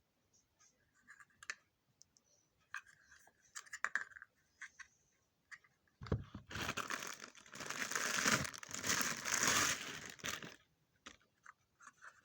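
Packaging being handled: scattered small clicks and rustles, then about four seconds of loud, uneven crinkling and tearing of plastic wrap, followed by a few more clicks.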